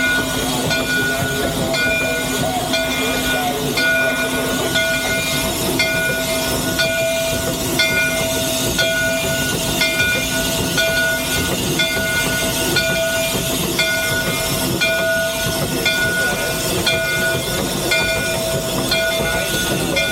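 Cab noise of a three-truck Shay geared steam locomotive: a steady, dense mechanical din and hiss, with a high ringing tone that pulses about twice a second.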